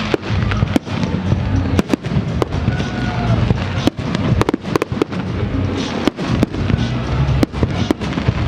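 Fireworks display going off: a rapid, irregular run of sharp bangs and cracks from aerial shells bursting, over a continuous low rumble.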